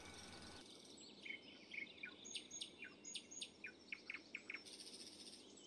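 Faint bird chirping: a run of quick, short chirps that sweep downward in pitch, starting about a second in and easing off near the end.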